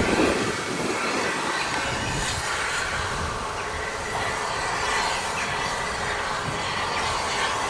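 A train running by, with a steady noise of wheels on the rails.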